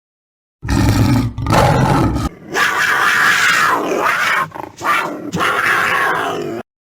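Big-cat roar sound effects: a deep roar lasting under two seconds, then a longer run of harsher, higher-pitched snarling roars broken by two short pauses, cutting off abruptly.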